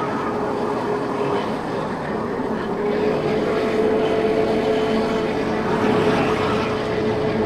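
50cc motorbike on the move: a steady engine note under a haze of wind and road noise. The note fades about a second and a half in and comes back a little higher a second later.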